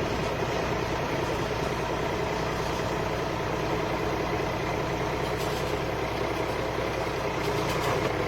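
Loader's diesel engine running steadily.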